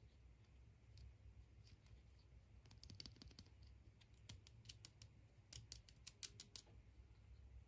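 Near silence with two short runs of faint clicks and crackles, about three seconds in and again around six seconds.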